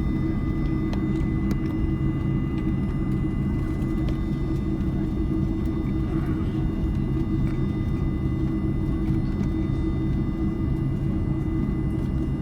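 Steady cabin drone inside an Airbus A310-304 on the ground before takeoff: a low rumble with a faint high whine held on one pitch.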